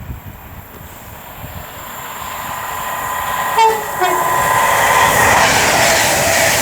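Class 390 Pendolino electric train approaching on the main line, its noise building steadily. A brief horn blast sounds about three and a half seconds in, and the train comes up to full loudness after it.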